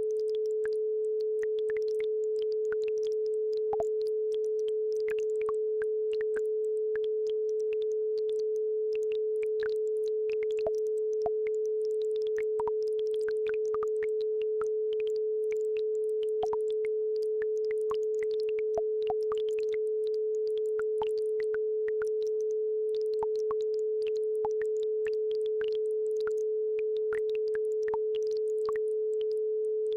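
Steady 432 Hz pure sine tone held at one pitch, with faint trickling and plinking of a babbling brook beneath it.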